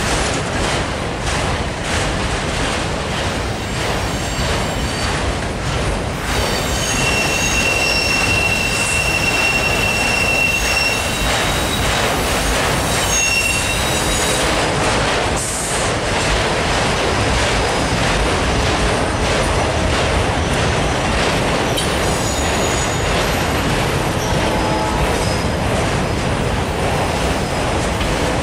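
Loaded autorack freight cars rolling past close by, a steady rumble of steel wheels on the rails. A high-pitched wheel squeal rings out from about six to fourteen seconds in, and lower squealing tones come in near the end.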